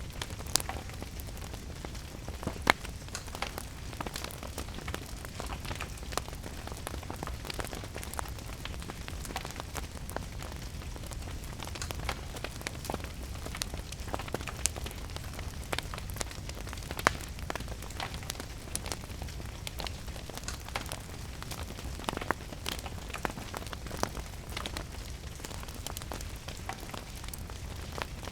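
Wood fire crackling with scattered sharp pops, the loudest about half a second in, near three seconds and near seventeen seconds, over a steady patter of rain.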